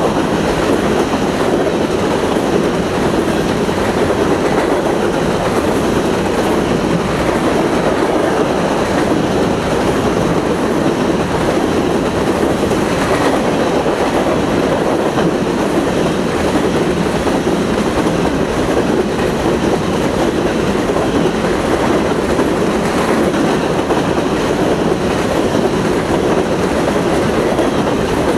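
Freight train of covered hopper cars rolling past close by: a loud, steady rumble of steel wheels on the rails.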